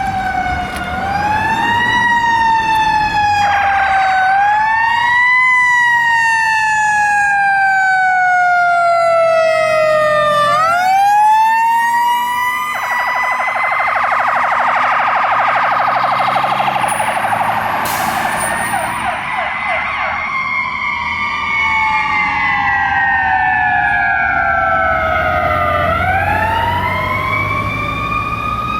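Fire engine and ambulance responding with sirens. A siren wail winds up quickly and slowly falls away, again and again. In the middle a long, harsh, buzzing blast sounds over it, and a shorter one comes a few seconds in.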